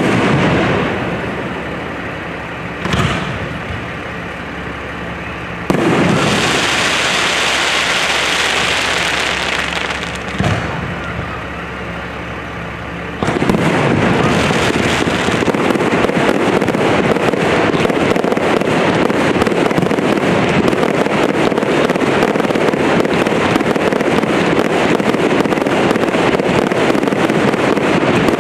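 Fireworks display: sharp bangs every few seconds, with a hissing stretch about six seconds in. From about thirteen seconds, a dense, continuous crackling barrage takes over.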